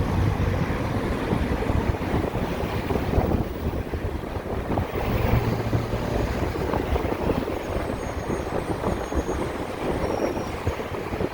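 Wind rushing over the microphone and road noise while riding a motorcycle in traffic, with a low hum rising briefly a few seconds in.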